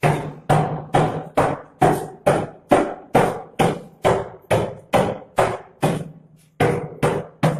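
Hammer blows struck in a steady rhythm, about two a second, each ringing briefly: breaking into the concrete covering the stairs to reach a trapped kitten.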